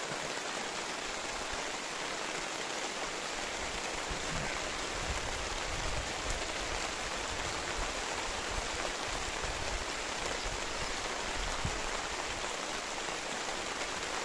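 Steady rain falling on the open water of a reservoir: an even, unbroken hiss of drops.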